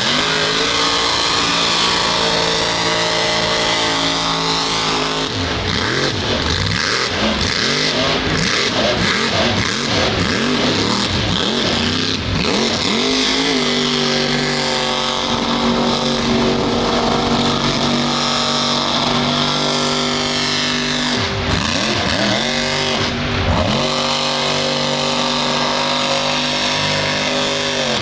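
Mud truck engine running hard at high revs, with the pitch dropping and rising again several times in quick succession and twice more near the end as the throttle is let off and opened again.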